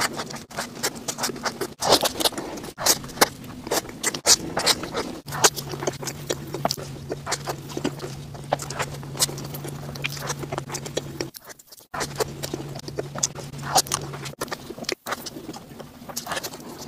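Close-miked chewing and mouth sounds as soft, cream-filled cake and bread are bitten and chewed: a dense, irregular run of wet smacks and small clicks.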